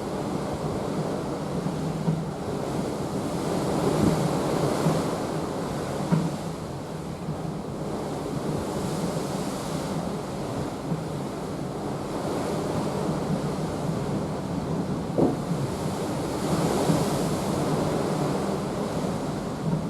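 Sea water rushing along the hull of a cruise ship under way: a steady wash that swells and eases every few seconds. Wind buffets the microphone, with a few brief thumps.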